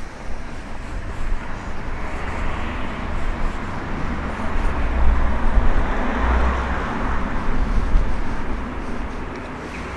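A road vehicle passing by: its tyre and engine noise swells, peaks about halfway through and fades away, over a steady low traffic rumble.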